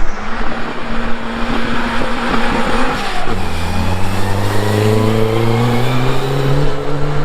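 Ford Anglia sprint car setting off from the start and accelerating hard. After a rush of noise, the engine note comes in strongly about three seconds in and climbs steadily as the car gathers speed.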